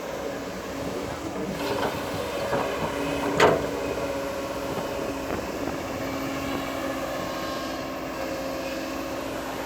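Crawler bulldozer running steadily, with a few metallic knocks from the machine and one sharp, loud clank about three and a half seconds in.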